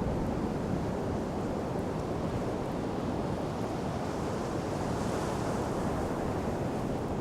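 Sea surf washing on a sandy beach, with wind rumbling on the microphone. A wave washes up with a brighter hiss about five seconds in.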